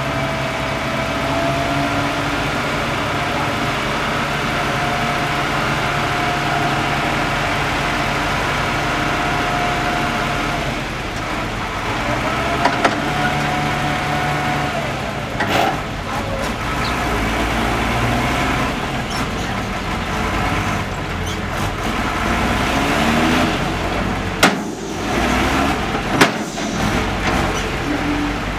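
Dump truck engine running steadily, with a held tone over it and a few short, sharp sounds in the second half.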